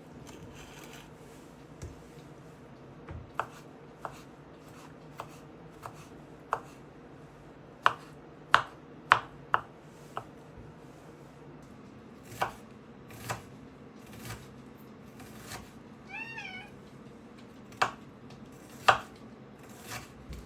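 A domestic cat gives one short meow about three-quarters of the way through. Scattered sharp clicks and knocks come before and after it, the loudest in a quick run of four about 8 to 10 s in.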